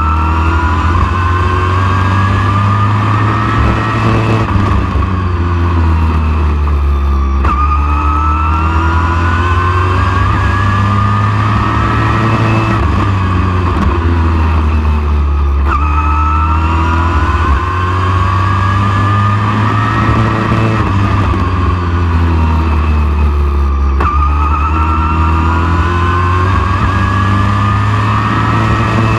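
Race truck engine running hard at full throttle, its pitch climbing for several seconds and then dropping sharply as it lifts off, in a cycle that repeats about every eight seconds through the laps.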